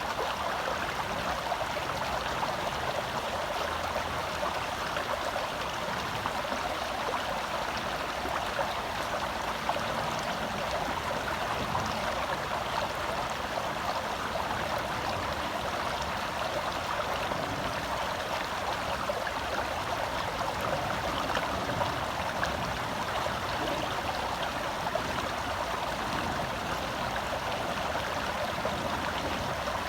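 A small forest stream flowing and babbling over rocks, a steady rushing with fine splashing.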